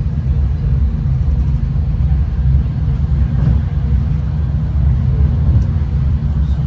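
Steady low rumble of a V/Line diesel passenger train running along the line, heard from inside the carriage.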